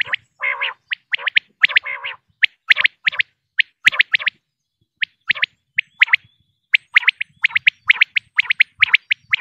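Female common quail calling: short, sharp notes repeated in quick runs and pairs, with two rougher, lower notes near the start and brief pauses about halfway through.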